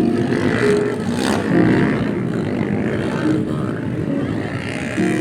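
Dirt bike engines running at a motocross race, a loud continuous din of engine noise.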